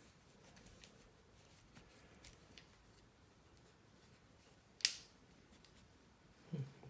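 Faint handling of a plastic prop sonic screwdriver, with light rubs and small clicks and one sharp click about two-thirds of the way through. A brief low sound follows near the end.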